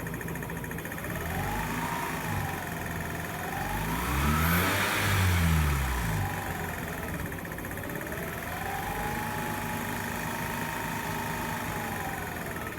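2006 Mazda RX-8's twin-rotor rotary engine revved three times from idle: a short rev, a sharper and louder one about halfway through, then a longer rev held for a few seconds before dropping back near the end. The owner reports a constant clicking from it that an oil change did not cure, which others put down to the SSV or low compression.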